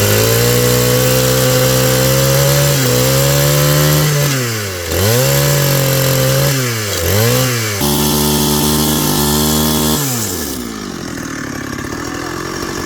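Small petrol engine of a power drill running at high speed while boring into wood. Its pitch dips and climbs back twice around the middle, as the throttle is eased or the bit loads up, then it throttles down about ten seconds in.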